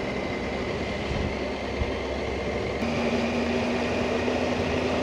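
Motorcycle engine running under way, with a steady rumble and rush of wind noise; a new steady engine note comes in about three seconds in.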